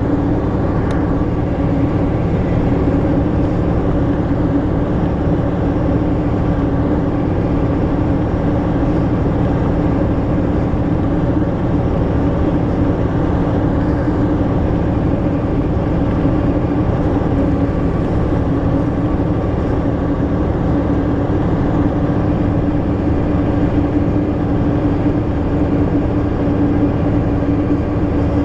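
The YaMZ diesel engine of an Ikarus-250.95 bus running steadily while the bus is under way, a constant drone that holds its pitch.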